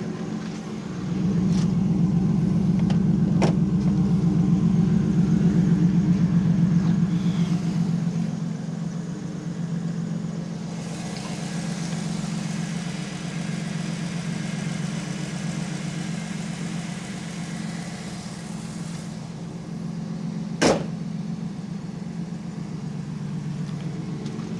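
1993 Pontiac Trans Am's LT1 V8 idling steadily through a Flowmaster exhaust, a little louder in the first several seconds. One sharp knock near the end.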